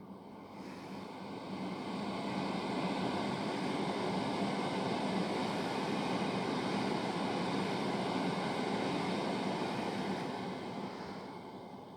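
GWR Class 802 bi-mode train of two coupled units passing through the station on diesel power. It is a steady rush of wheels and engines with a low hum, swelling over the first couple of seconds, holding, and fading away near the end.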